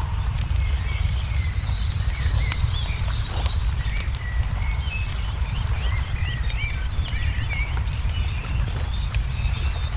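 Wood fire crackling with scattered sharp pops over a steady low rumble, while small birds chirp over and over, busiest through the middle.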